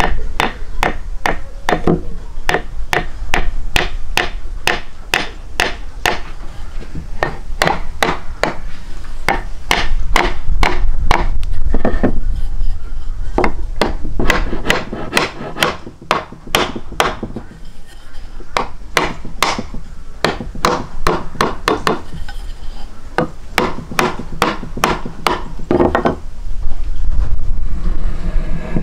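Sharp knocks, about two to three a second, in runs broken by short pauses, over a steady low rumble.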